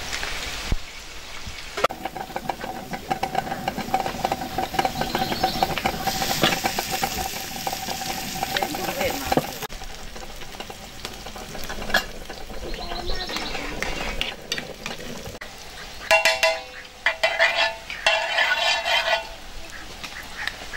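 Food sizzling as it is stirred in a pan, with the clicks and scrapes of the utensil against the pan. Near the end a duck quacks several times.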